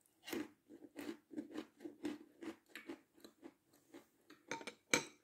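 Close-miked chewing of crisp meringue: a steady run of crunches, about three a second, with two louder crunching bites near the end.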